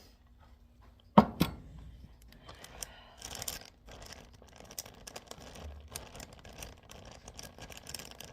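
Two sharp knocks about a second in, then irregular crinkling and rustling as a bag holding a donkey manure sample is handled and the manure broken down for a sand test.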